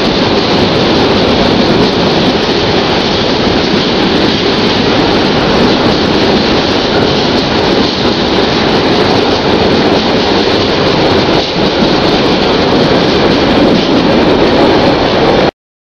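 Container freight train wagons rolling past at speed, a loud, steady rush of wheel and rail noise that stops abruptly near the end.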